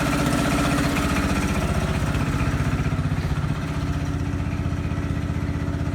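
A small tractor engine running steadily close by, its firing pulses quick and even.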